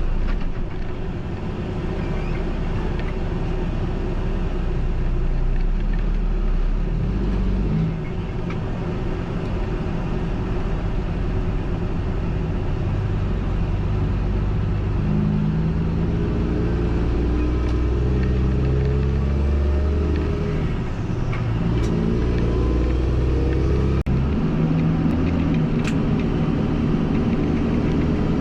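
Mack semi truck's diesel engine running on the road, its pitch stepping up and down several times as it changes gears. There is a short dip in level about eight seconds in and a brief break about twenty-four seconds in.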